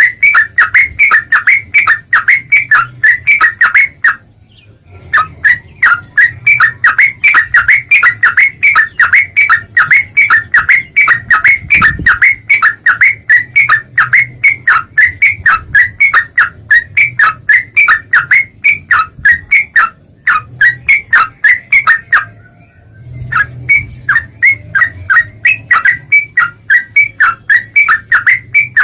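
Yellow-vented bulbul (trucuk) song: a rapid, even string of short, sharp whistled notes, about five a second, broken by two brief pauses.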